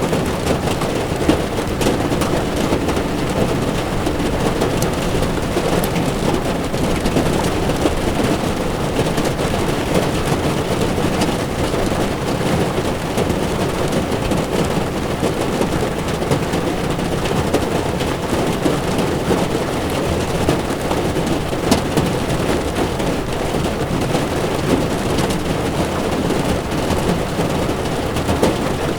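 Heavy rain hitting a moving car's windshield and body, with its tyres on the wet road: a steady wash of noise with scattered sharp drop ticks.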